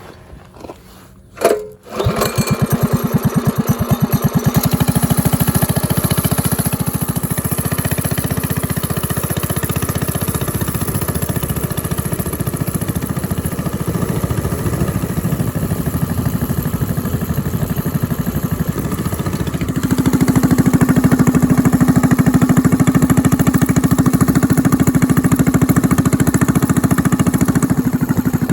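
Minibike's small 200-class single-cylinder engine, fitted with a stage 1 kit, starting about two seconds in after a few knocks and then running steadily. About twenty seconds in it picks up and runs louder and higher, on the small amount of fuel in the tank.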